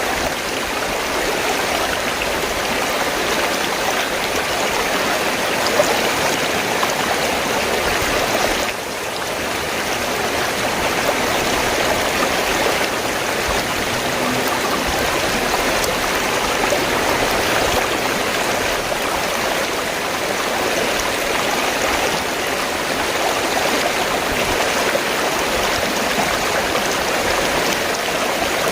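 River water flowing steadily, an even wash of water noise with a brief dip in level about nine seconds in.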